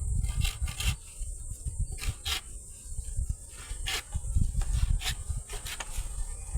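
A steady high insect chorus, like crickets, runs throughout. Under it come uneven low rumbling and scattered clicks and scrapes, as of something being rubbed or handled.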